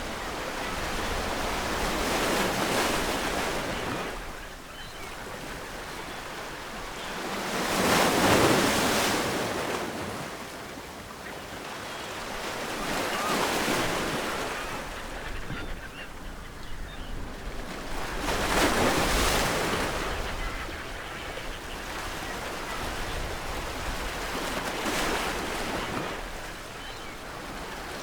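Ocean waves breaking on a shore, each wave swelling into a rush of surf and washing back, one every five or six seconds.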